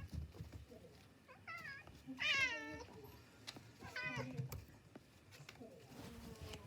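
Domestic cat meowing three times, the second meow the longest and loudest, falling in pitch as it goes.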